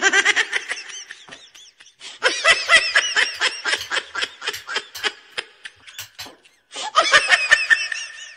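High-pitched giggling laughter in three bouts, the middle one the longest, much louder than the talk around it.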